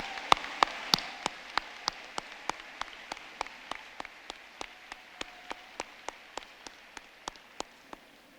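Audience applause dying away, leaving a single pair of hands clapping steadily at about three claps a second, gradually fading.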